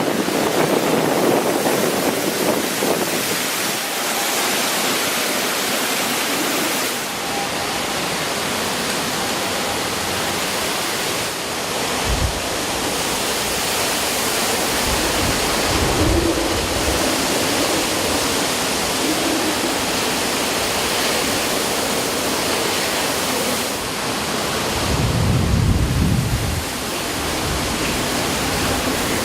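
Hurricane-force wind and driving rain in a steady rushing roar, with gusts buffeting the microphone several times, hardest near the end.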